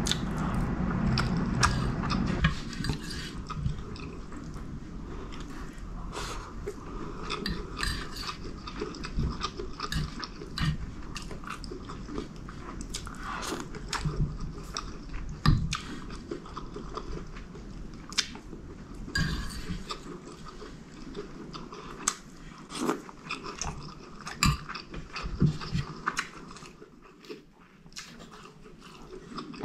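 Close-miked chewing and mouth sounds of a person eating chicken curry and rice, with many short sharp clicks, louder and denser for the first two seconds or so.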